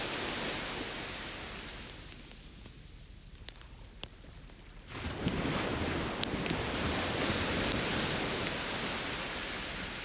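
Ocean waves on a beach: one wash dies away over the first couple of seconds, and the next wave surges in about five seconds in. Scattered sharp pops from a crackling wood campfire sound over the surf.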